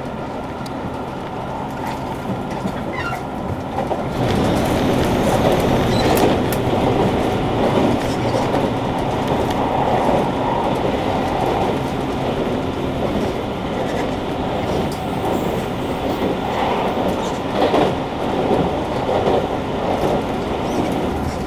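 JR Kyushu 883 series electric train running at speed, heard from inside the car: steady rumble of wheels on rail with clickety-clack over rail joints, over the hum of its Toshiba GTO-thyristor inverter and traction motors. It gets louder about four seconds in.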